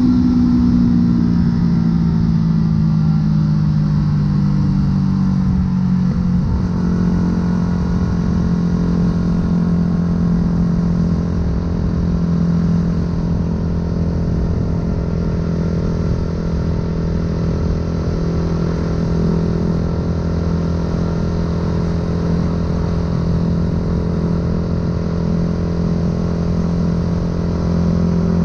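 Yamaha YZF-R125's single-cylinder four-stroke engine through a full aftermarket exhaust while riding. Its pitch falls as the revs drop over the first six seconds or so, then it runs at a steady pitch for the rest.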